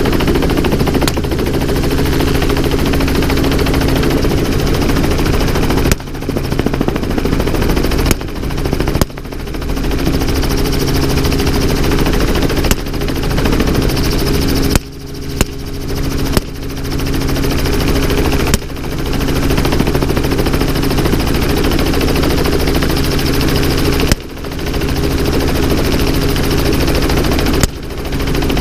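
Helicopter engine and rotor running steadily, broken by about ten gunshots at irregular intervals, a few seconds apart.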